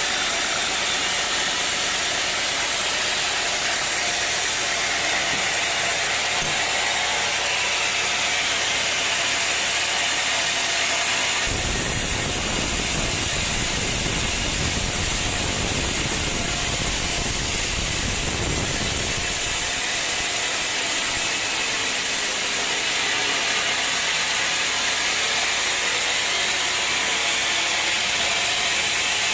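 Sawmill machinery running steadily, an engine with a hissing mechanical noise. The sound changes abruptly about a third of the way in, with a heavier low rumble for several seconds before settling back.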